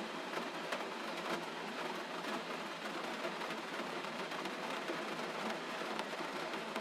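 Gentle rain falling steadily: an even hiss scattered with many small drop ticks.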